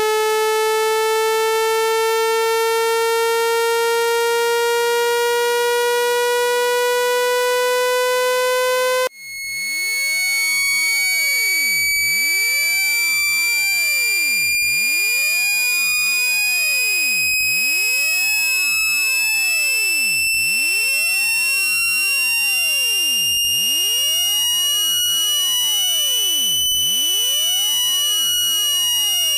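Synthetic speaker-cleaning tone for driving water out of a phone speaker: a buzzy electronic tone slowly rising in pitch. About nine seconds in it cuts out for a moment and jumps to a much higher, shrill tone that keeps slowly rising.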